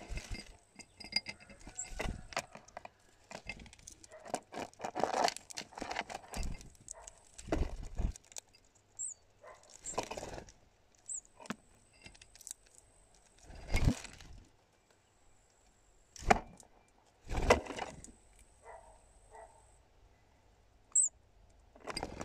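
Hawfinches at a feeder right by the microphone: irregular clicks and knocks of bills and feet on the plastic cup and tray, with louder thumps and wing flutters as birds land and take off. A few very short high call notes break in, about nine seconds in, again near eleven seconds and once more near the end.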